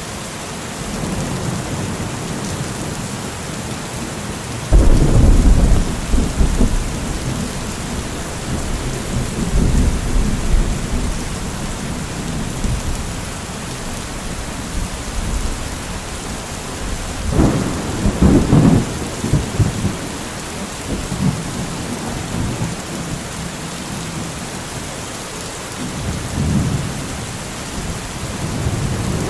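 Steady rain in a thunderstorm, with thunder rumbling over it: a sudden loud clap about five seconds in that rolls on for several seconds, another rumble around eighteen seconds in, and a fainter one near the end.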